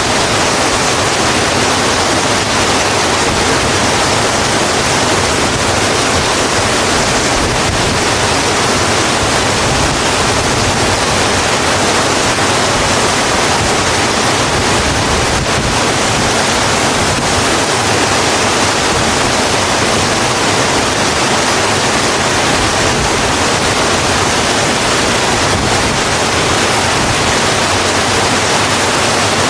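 Steady, heavy rain falling on a road, an even hiss with no breaks.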